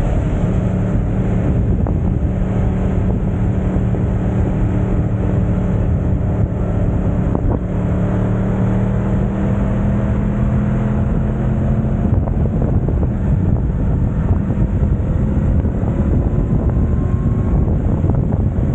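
Yamaha YZF-R1 crossplane inline-four running through an Akrapovic exhaust at a steady cruise, its pitch climbing slowly through the middle, with wind rushing over the microphone.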